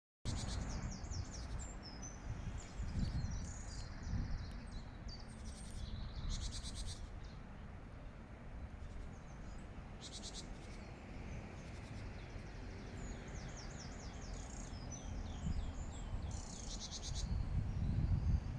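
Great tit singing: phrases of quickly repeated short, high two-note strokes, with pauses between the phrases. A steady low rumble runs underneath.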